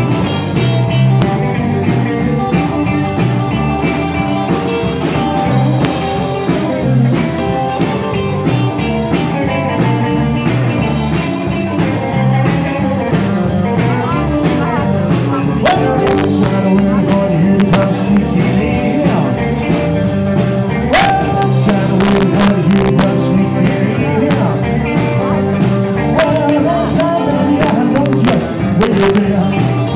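Live rock and roll band playing an instrumental stretch with a steady beat, sharp drum hits coming in over the second half.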